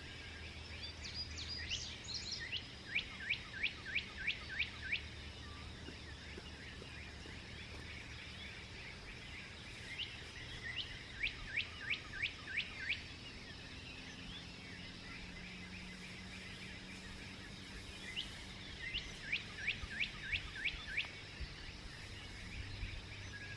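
A bird singing three songs about eight seconds apart. Each song is a quick run of six or seven sharp down-slurred notes, about three a second, over a steady background hiss.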